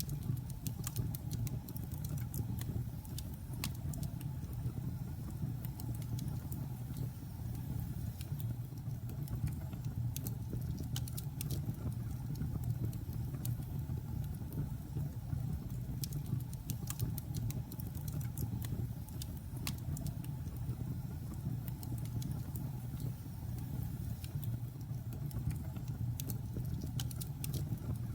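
Logs burning in a fireplace: a steady low rumble of the fire with irregular sharp crackles and pops from the wood.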